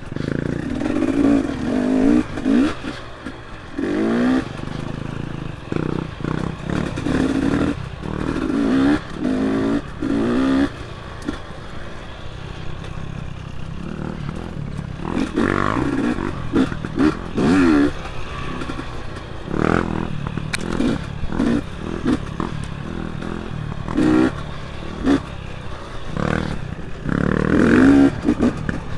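Dirt bike engine revving up and down over and over, its pitch rising and falling every second or two, with clatter and knocks from the bike.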